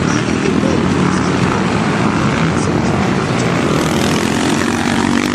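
Motocross motorcycle engines running, a loud steady drone with several engine pitches shifting up and down.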